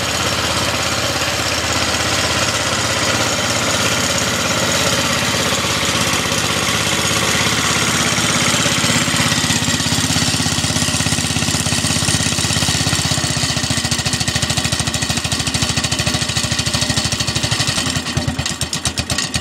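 Bolens 1050 garden tractor engine running steadily just after a cold start, then dropping to a slower idle near the end that is uneven, an idle the owner calls only sort of good.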